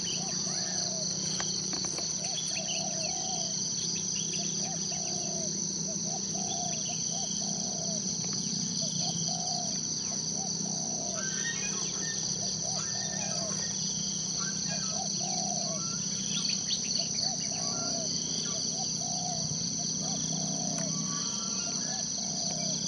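Forest ambience: insects drone steadily at a high pitch, while a low call repeats about once a second and birds add scattered higher chirps, with a low steady hum underneath.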